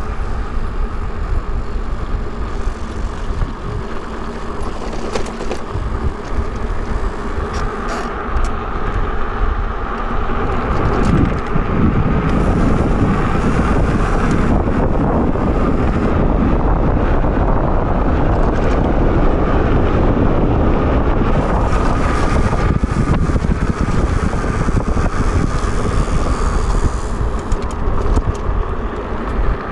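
Wind rushing over the microphone and road noise from a moving e-bike, with a steady hum underneath. The noise swells and stays louder from about a third of the way in.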